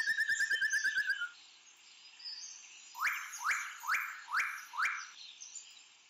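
Birds calling: a fast trill in the first second, then a series of five loud upward-sweeping calls about half a second apart, over fainter high calls of other birds.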